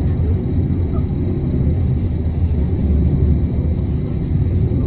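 Amsterdam tram running, heard from inside the car: a steady low rumble of wheels on the rails and traction motors.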